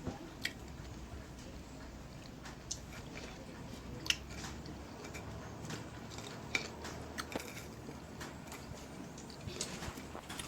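A person chewing and biting food close to the microphone, with scattered short mouth clicks and soft crunches of eating.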